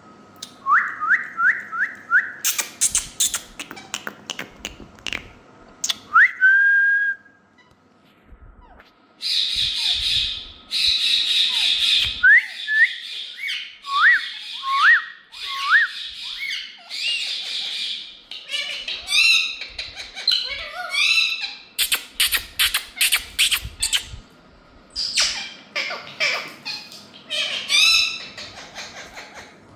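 A group of Indian ringneck parakeets calling: runs of short rising whistles, sharp shrieks and stretches of harsh squawking, with a brief lull about a quarter of the way through.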